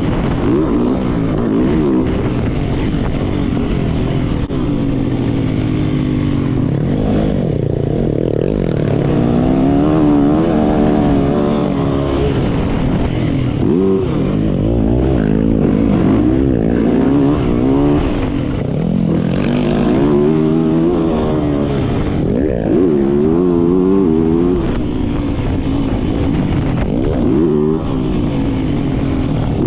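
Yamaha YZ450F dirt bike's four-stroke single-cylinder engine running hard while riding, its pitch climbing and dropping again and again as the throttle is opened and rolled off.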